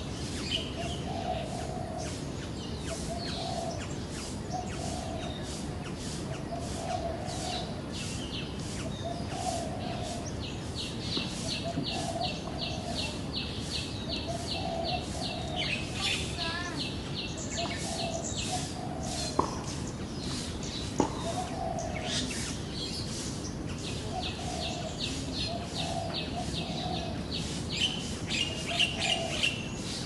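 Birds chirping: two long runs of even, high chirps at about three a second, each lasting several seconds, over a lower call that repeats every two seconds or so. Two sharp clicks come about two-thirds of the way through.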